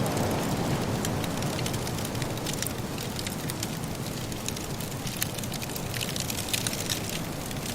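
Wood fire crackling in a fireplace, with many small sharp snaps and pops that come thicker in the second half, over a steady low rush like wind.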